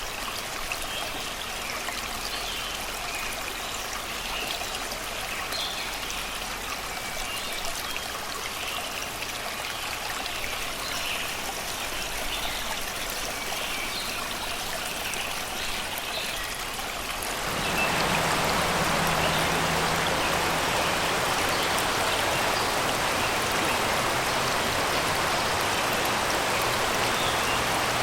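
Shallow river water running over and around rocks in a steady rush, with birds singing in the forest over it. About two-thirds of the way through, the water sound suddenly becomes louder and fuller.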